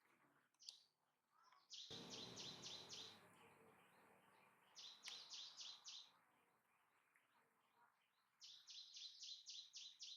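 An animal calling in three bouts of rapid, high, short chirps, about six to eight to a bout, with a stretch of faint broad noise under the first two bouts.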